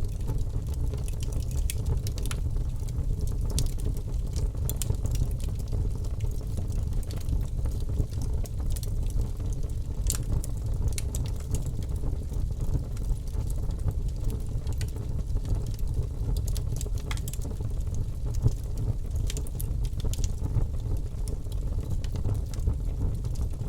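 Campfire burning: a steady low rumble with irregular sharp crackles and pops throughout.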